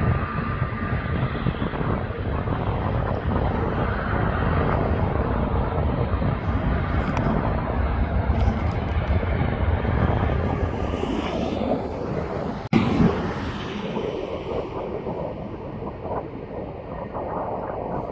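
Airliner jet engines running loud and steady as a plane passes, with a heavy low rumble. About thirteen seconds in, the sound drops out for an instant and then carries on quieter.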